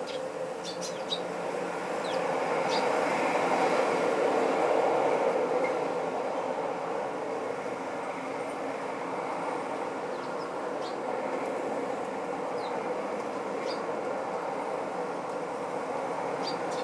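Short, high sparrow chirps scattered over a steady rumble that swells a couple of seconds in and then settles back.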